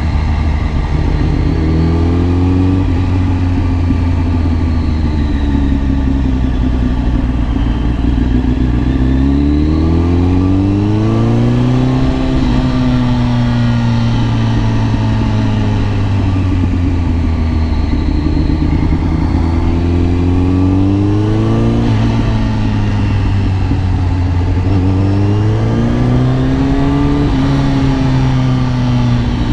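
Kawasaki ZX-10R's inline-four engine heard from the rider's seat, accelerating through the gears: the pitch climbs and then drops sharply at each upshift, three times, with a long stretch in the middle where the revs slowly fall away.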